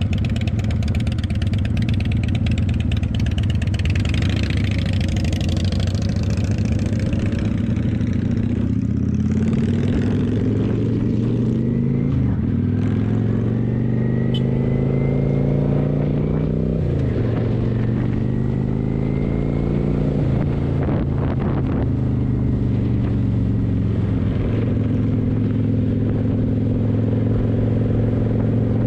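Kawasaki motorcycle engine under way, with wind noise on the microphone for the first several seconds. About nine seconds in it pulls away, the pitch climbing and then dropping at each gear change, twice. It then settles into a steady cruise.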